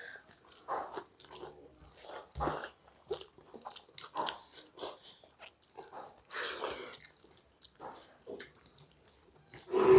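Close-miked chewing and lip-smacking of people eating rice and vegetable curry by hand, a string of short, irregular wet smacks and clicks, with one louder noise right at the end.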